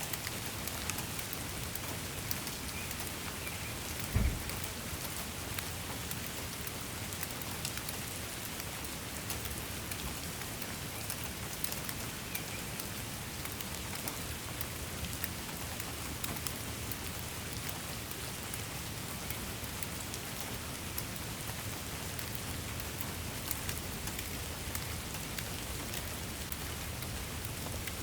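Steady rain falling, with many fine drop clicks throughout and one brief low thump about four seconds in.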